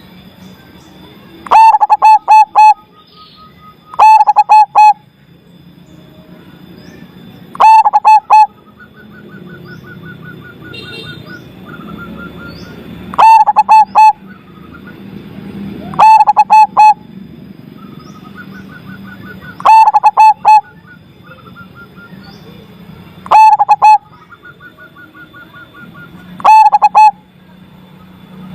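Zebra dove (perkutut) cooing loudly in short phrases of a few quick notes, repeated about every three to four seconds, eight times. Fainter rapid trills of another bird sound between the phrases.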